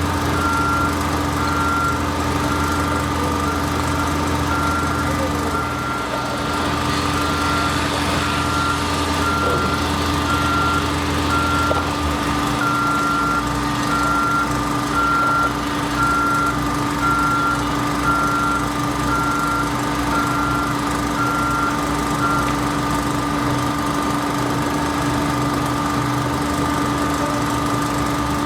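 Backup alarm on construction machinery beeping steadily at one pitch, a little over once a second, over a diesel engine running; the beeping stops about three quarters of the way through while the engine keeps running.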